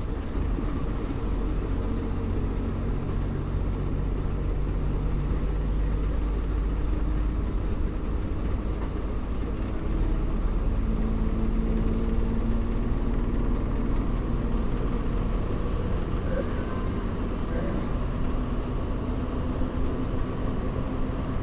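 Bus riding along with a steady low rumble of engine and road noise. The engine note shifts slightly about halfway through.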